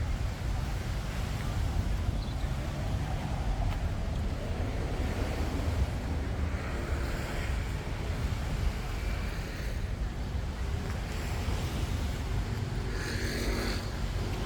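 Roadside traffic with a steady low wind rumble on the microphone; a vehicle passes near the end.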